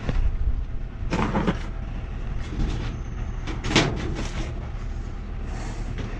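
Several short knocks and clicks from metal tools and pipe fittings being handled, over a steady low hum.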